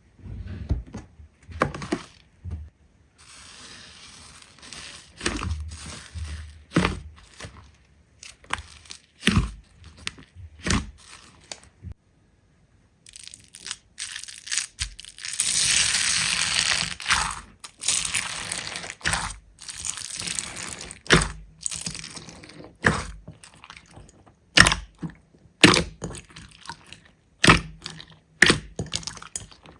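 Slime being squeezed and pressed by hand, giving a run of sharp crackles and pops, with a louder crinkly, hissing stretch a little past halfway.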